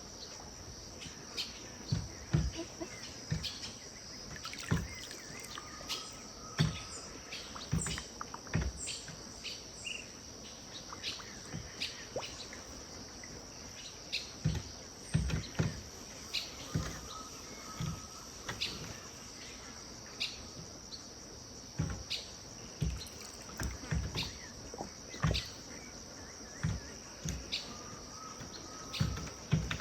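Riverside ambience: a steady high insect drone, small irregular knocks and lapping of river water, and birds calling, one short call repeating about every ten seconds among a few brief high chirps.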